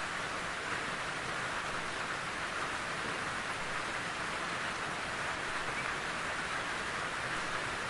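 Steady, even rainfall with a dense hiss of drops on the ground and foliage.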